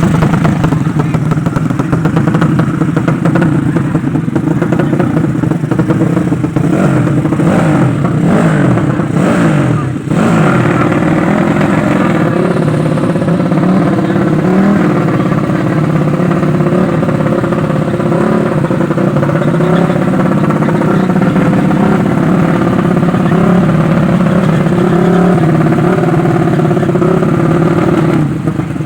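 Motorcycle engines from Yamaha 5TP racing bikes running loudly at high revs, the pitch wavering up and down as the throttle is worked, with more rapid rises and falls about six to ten seconds in.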